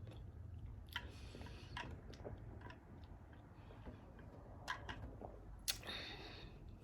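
Faint eating mouth sounds: soft chewing with scattered small wet clicks and smacks picked up close to the microphone, over a low steady room hum.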